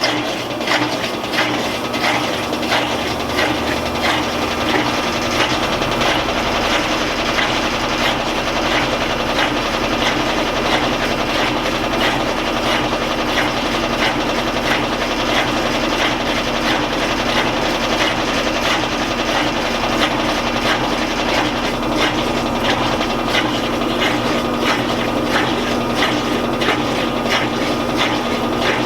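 Admiral (Whirlpool-built) belt-drive top-load washing machine in its final high-speed spin, running with a steady hum and rushing noise. A higher steady tone sets in about six seconds in as it settles at speed.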